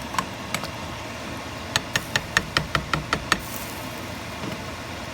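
A quick run of about eight sharp knocks, roughly five a second, starting a little under two seconds in, over a steady background noise.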